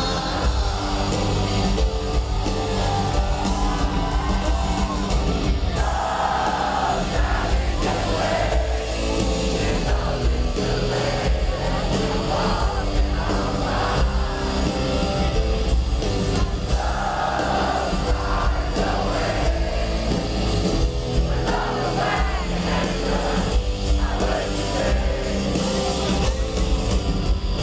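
Live rock band playing a song with singing, with crowd voices and yells mixed in.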